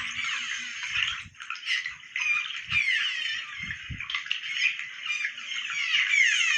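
Many birds calling together: overlapping chirps and squawks, with bursts of quick downward-sweeping notes about three seconds in and again near the end.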